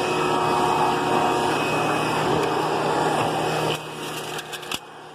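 Hoover PowerMax II vacuum cleaner motor running steadily with a whine, then cutting off suddenly about three and a half seconds in, followed by a few sharp clicks.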